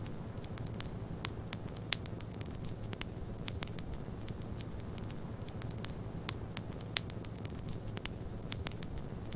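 Wood fire crackling with frequent sharp pops, two of them louder, about two seconds in and near seven seconds, over a steady low rumble of snowstorm wind.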